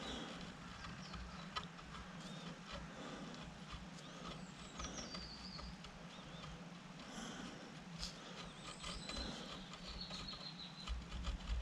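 Light clicks and taps of metal pump parts and a dial gauge being handled on the bench, over a steady low hum. Faint high chirps and whistles come and go.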